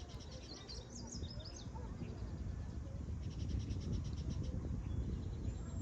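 Birds chirping outdoors: short trills of rapid, evenly spaced high chirps, repeated several times, with a few quick squeaky calls in the first couple of seconds. A steady low rumbling noise sits underneath and is the loudest part.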